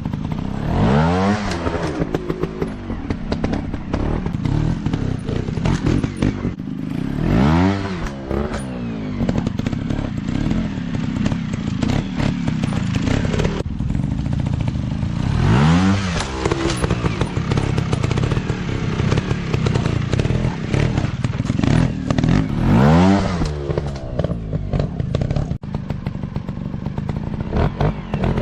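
Small dirt bike engines running, with four hard revs whose pitch climbs steeply, roughly every seven seconds.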